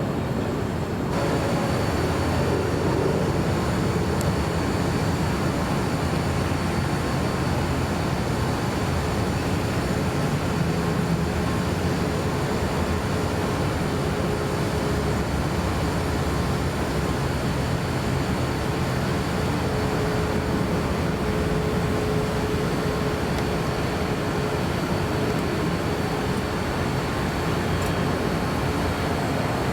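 Jet airliner engines running, heard at a distance as a steady noise with a faint high whine; it grows slightly louder about a second in and then holds level.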